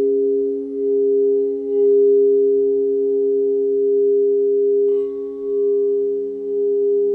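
Singing bowls ringing in sustained, overlapping pure tones that slowly swell and fade. About five seconds in, another bowl is struck, adding a higher ringing tone.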